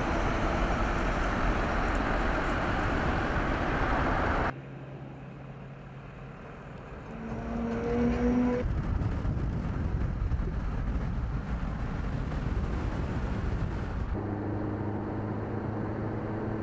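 Vehicle sounds in a few cut shots. First a loud, even rushing noise, then a quieter stretch with a few brief tones, then a steady hum from about 14 seconds in.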